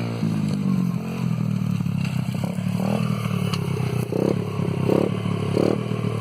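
Dirt bike engine running, its pitch dropping sharply as it comes off the throttle right at the start, then carrying on unevenly with a few short surges in the second half.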